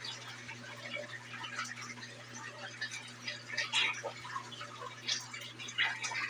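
Water splashing and dripping inside a Brastemp BWG11 11 kg washing machine washing a load of bed and bath linens: irregular splashes over a steady low hum.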